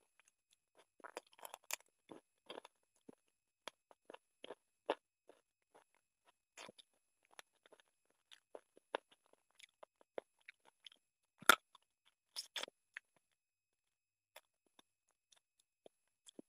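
Close-up eating sounds of a person eating chicken curry and rice by hand: chewing, lip smacks and crunching, heard as scattered wet clicks, with one sharp, louder click about eleven and a half seconds in.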